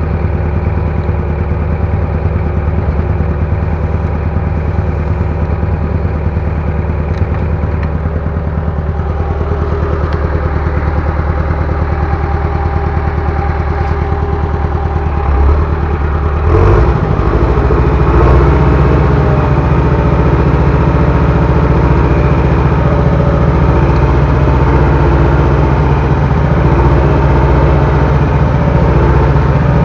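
Bulldozer's diesel engine running steadily, then revving up about sixteen seconds in and holding at the higher speed.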